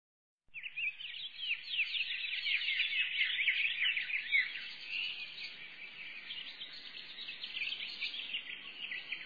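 Dense chorus of many small birds chirping at once, a continuous twittering that starts abruptly about half a second in and cuts off suddenly at the end.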